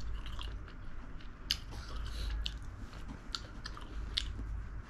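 A person chewing and biting spicy braised chicken (dakbokkeumtang) with sharp mouth clicks and smacks scattered about once a second.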